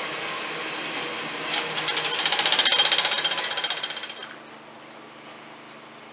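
Container freight wagons clattering past, a rapid rattle of wheels on the rails with a high ringing tone, loudest about two to four seconds in. About four seconds in it cuts off to the faint steady low hum of a distant approaching passenger train.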